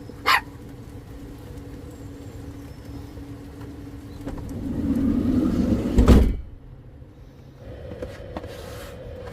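A van's sliding door rolling shut and closing with a heavy thud about six seconds in, cutting off the hiss of the rain outside. A steady low hum runs underneath.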